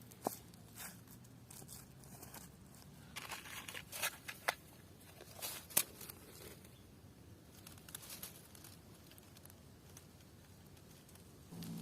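Intermittent rustling and crackling handling noises, with a cluster of sharp crackles and snaps in the middle few seconds.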